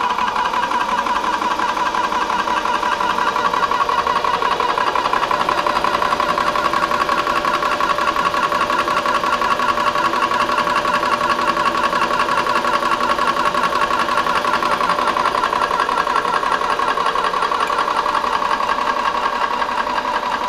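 Benjamin Traveler portable PCP air compressor running steadily with a fast, even pulsing hum as it pumps up a Benjamin Marauder air rifle toward its 3000 psi shut-off.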